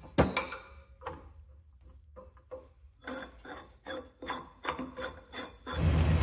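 Repeated rasping strokes, like a file or wire brush scraping on metal, at first irregular, then about four strokes a second. Near the end a loud, steady, low-pitched machine noise starts up.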